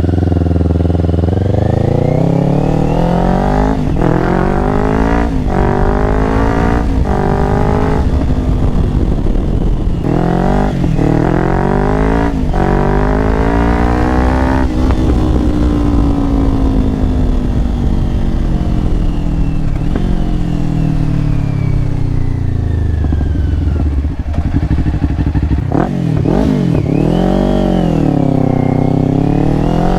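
2024 Kawasaki Ninja 500's parallel-twin engine through a Yoshimura AT2 full exhaust, accelerating through the gears with the pitch climbing and breaking at each change. Midway it slows for a long stretch with the pitch falling, then revs rise and fall again near the end. Sharp cracks come at several of the breaks: backfiring, which the rider puts down to the engine running rich without an ECU flash.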